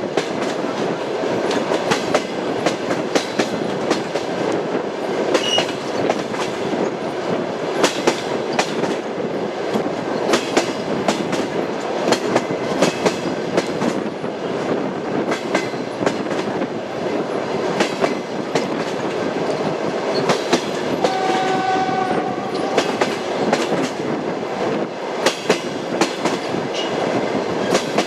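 Railway carriage wheels running over the rails, a continuous rumble with a steady clickety-clack of wheels striking rail joints. About two-thirds of the way through, a brief pitched tone sounds for a second or two.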